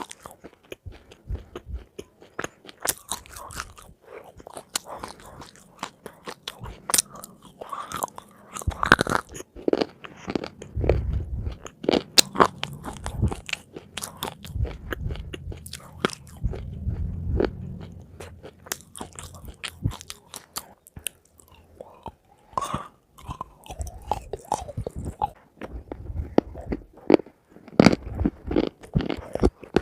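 Close-miked eating of crunchy food: irregular crisp bites and crunching chews with crackles, and some muffled low chewing thumps in the middle.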